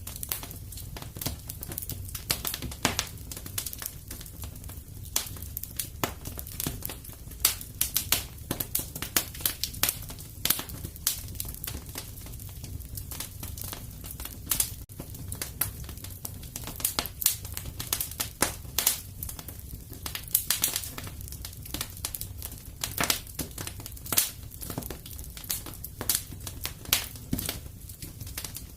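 Wood fire in a fireplace crackling, with irregular sharp pops and snaps, some louder than others, over a steady low rumble.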